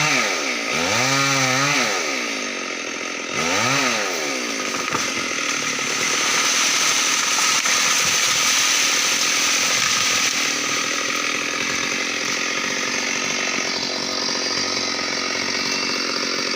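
Stihl MS 382 two-stroke chainsaw revved up and down a few times, then held at full throttle for a long steady run, as when cutting through teak wood.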